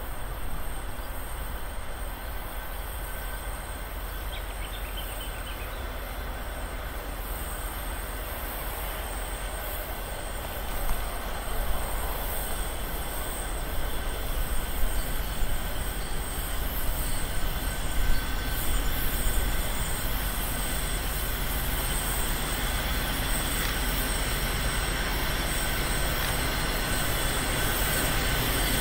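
Diesel-electric locomotives at the head of a heavy loaded coal train climbing a steep grade, growing louder as they approach from about ten seconds in.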